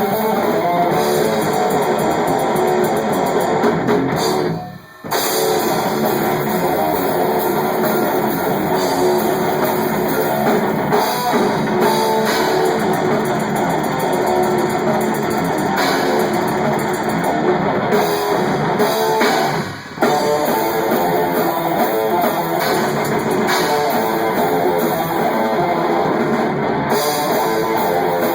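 Rock band playing loud in rehearsal, electric guitars over a drum kit, heard raw through a phone camera placed at the drums. The band stops briefly twice, about five seconds in and again about two-thirds through.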